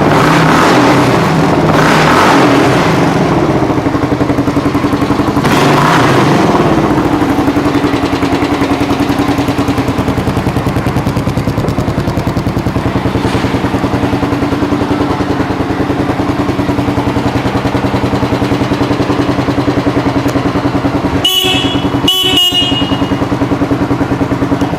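2002 Kawasaki KLR650's single-cylinder four-stroke engine running: the throttle is blipped three times in the first seven seconds, then it settles to a steady idle. Near the end a horn beeps twice briefly.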